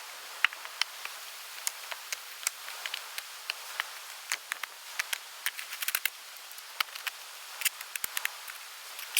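Steady outdoor hiss with many irregular sharp clicks and crackles scattered through it.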